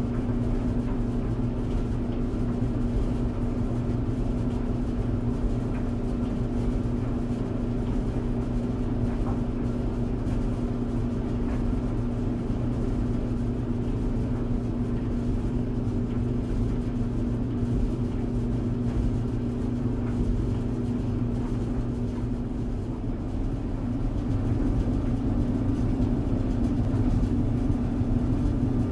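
Clothes tumble dryer running: a steady motor hum over the low rumble of the turning drum, growing slightly louder near the end.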